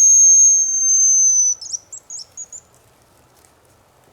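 Hazel grouse whistle call blown close by, imitating the hen: one long high whistle held about a second and a half and dipping slightly at its end, then a few short broken notes.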